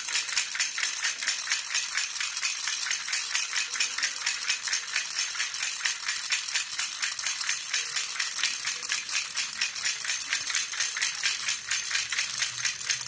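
Jhunjhuna (baby rattle) shaken steadily in an even rhythm of several quick shakes a second, its jingling bright and continuous.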